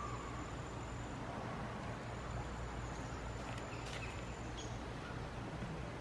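Forest ambience: the steady rush of a low-running creek, with a few short bird chirps about four seconds in.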